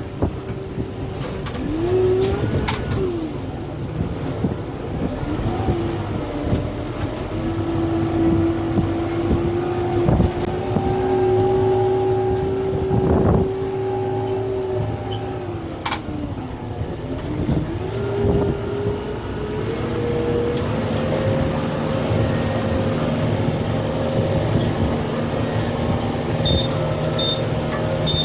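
Kubota M6-141 tractor's diesel engine working under load, its pitch gliding up and down as the revs change, with a few sharp cracks along the way.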